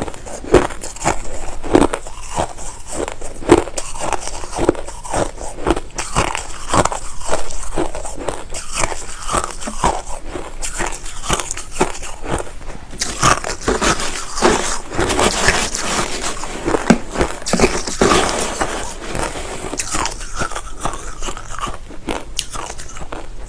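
A person biting and chewing crushed ice: close-up, irregular crunching with rapid crackles, several crunches a second.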